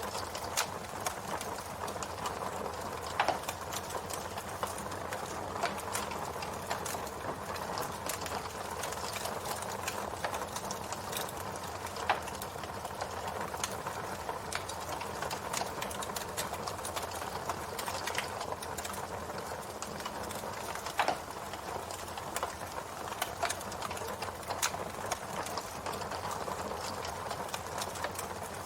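Campfire burning: a steady hiss and rustle of flames with irregular sharp crackles and pops from the burning wood, a few louder pops spaced several seconds apart.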